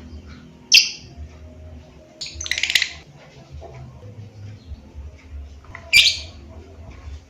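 Lovebird calling: a sharp, high shriek about a second in, a rapid chattering trill around two and a half seconds, and another sharp shriek near six seconds.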